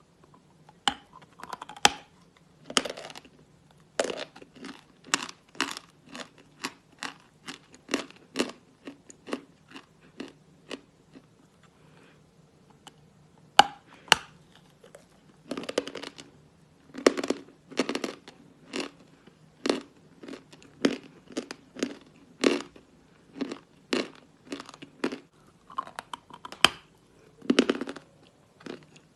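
A person biting and chewing lumps of natural chalk close to the microphone. Sharp, irregular crunches come about one to three a second, with a brief lull a little before midway.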